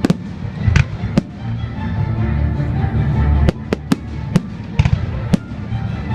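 Fireworks exploding in the air: about ten sharp bangs, several in quick succession between about three and a half and five and a half seconds in, over music that plays throughout.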